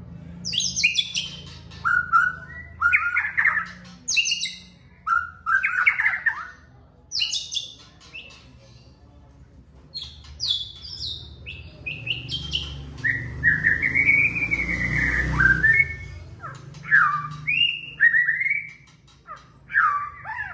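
White-rumped shama (murai batu) singing a string of loud, varied phrases of whistles and quick chattering notes, a new phrase about every second, with one longer slurred whistle about midway.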